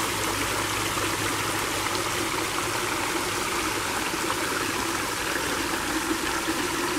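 Creek water rushing and flowing steadily.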